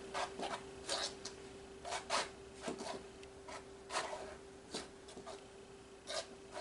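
Paint being spread across a canvas with a tool, a series of short, irregular scraping strokes.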